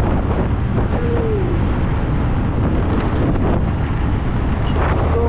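Wind rushing over the microphone of a moving motorcycle, over the steady low rumble of its engine and the road.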